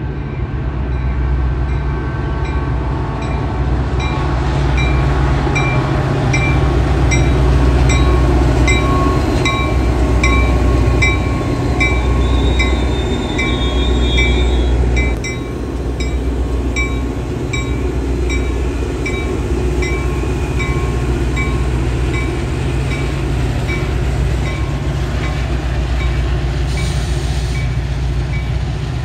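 Metra commuter train passing behind a diesel locomotive, with a deep engine-and-wheel rumble that is loudest about eight seconds in and eases off after about fifteen seconds. A warning bell dings steadily, about one and a half times a second, for most of the time.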